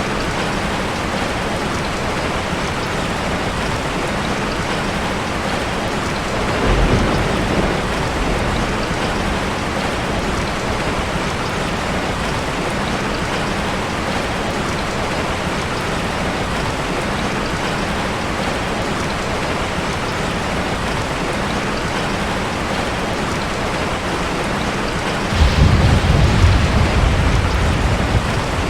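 Steady rain. A short low rumble comes about seven seconds in, and a louder, longer one near the end.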